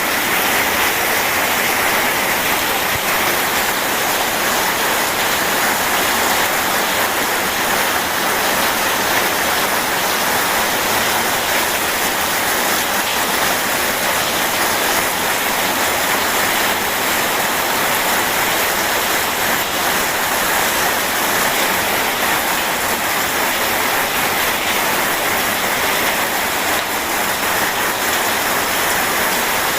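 Steady rain mixed with rushing river water, an even hiss with no changes or thunderclaps.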